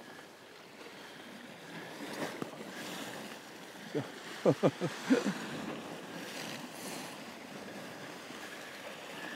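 Steady wash of sea and wind noise, broken about four seconds in by a quick run of five or six sharp knocks lasting about a second.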